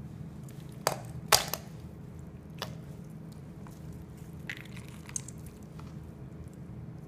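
Knife cutting a whole raw chicken on a cutting board: a few sharp knocks and crunches, the loudest about a second in, then fainter ones, over a steady low hum.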